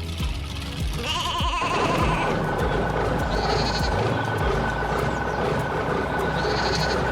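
Sheep bleating, a quavering call repeated about every three seconds, over a steady background tone and low hum.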